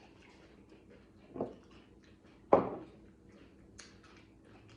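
A few knocks and clicks of things handled at a table: a soft knock, then a sharp knock about two and a half seconds in that is the loudest, then a small click, over a faint steady room hum.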